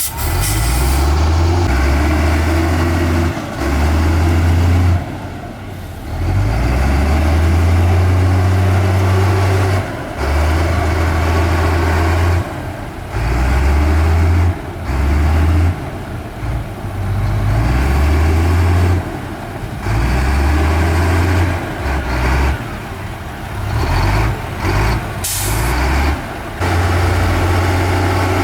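Diesel engines of a bulldozer and dump trucks working earth, with a heavy low rumble that surges and drops away irregularly as the machines load and ease off. Short hisses like air brakes come just after the start and again near the end.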